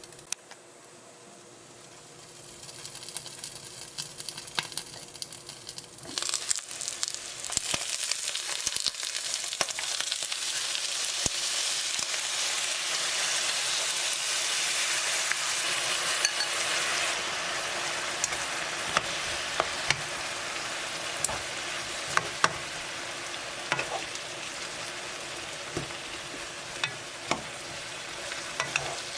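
Eggplant sizzling in a hot frying pan as it is stirred, with sharp clicks of a utensil against the pan. The sizzle starts faint, builds over the first several seconds and is loudest around the middle.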